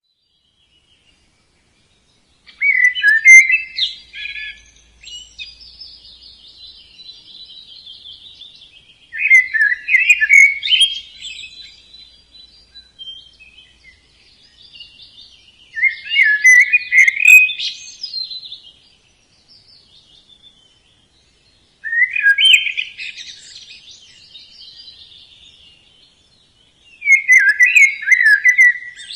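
Budgerigars chirping and chattering: five loud bursts of quick chirps about six seconds apart, each trailing off into softer warbling chatter.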